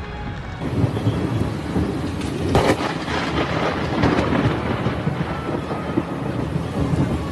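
Thunder rumbling over heavy rain, with a sudden loud clap about two and a half seconds in.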